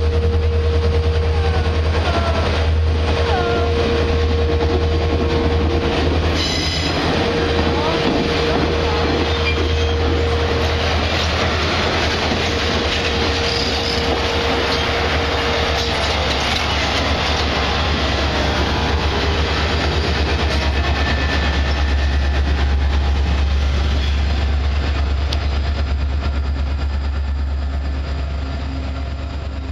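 Alaska Railroad passenger train rolling slowly past close by: a loud, steady low rumble of steel wheels on rail, with a thin steady whine that comes and goes through the first half and a few clacks over rail joints. Near the end the trailing diesel locomotive goes by and the sound begins to fade.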